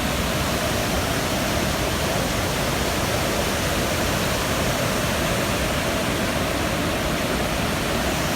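Waterfall rushing steadily, an even noise with no breaks.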